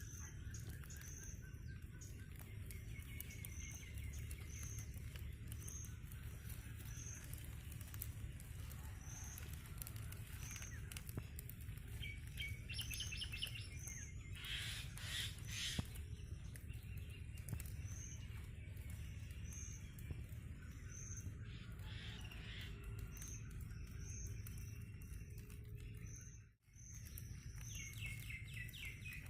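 Outdoor birdsong: one bird repeats a short high chirp about every three-quarters of a second, while other birds give a few falling trilling calls, over a steady low rumble. The sound cuts out briefly near the end.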